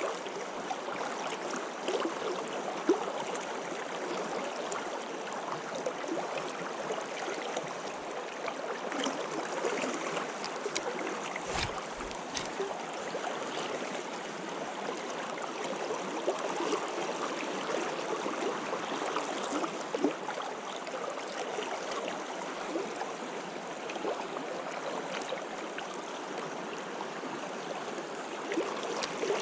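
Stream water flowing and burbling steadily, with a brief low bump a little before halfway through.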